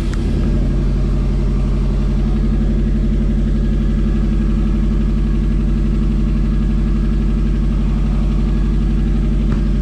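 Turbocharged Honda H22A four-cylinder engine idling steadily at about 1,400 rpm on a base map, freshly fired and running lean while fuel is being added.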